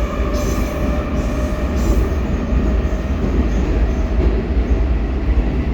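Baltiets metro train running at speed through a tunnel, heard from inside the car: a loud, steady rumble of wheels and running gear with a faint steady whine above it.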